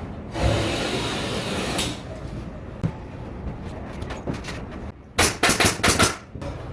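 Carpentry work noise: a scraping, rustling sound lasts about a second and a half, then come a few light clicks, and near the end a quick run of about five loud, sharp impacts.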